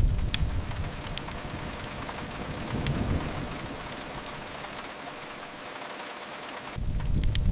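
Steady rain hiss mixed with the sparse, sharp crackles of a wood fire. A deep low rumble fades over the first second, swells briefly in the middle and comes back strongly near the end.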